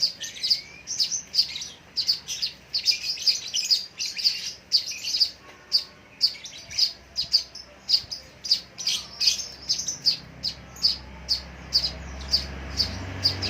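Lovebird chirping over and over, short high chirps about two to three a second.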